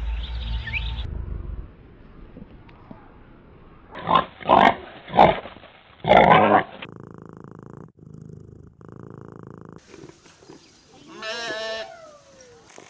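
Animal calls from a run of short clips: four loud, harsh cries in quick succession, then quieter stretches, then one pitched call that falls in pitch near the end.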